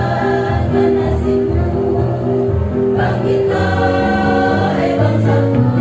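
Women's choir singing a devotional song in long held notes, with low sustained accompaniment notes beneath.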